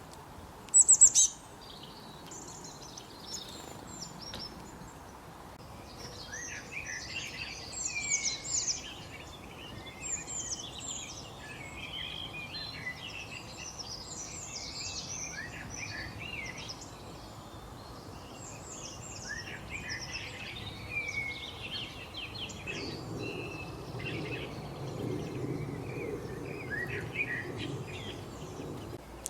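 Eurasian bullfinch singing and chirping: two sharp high calls about a second in, then a long, busy run of short whistled and twittering notes. A low rumble lies under the song near the end.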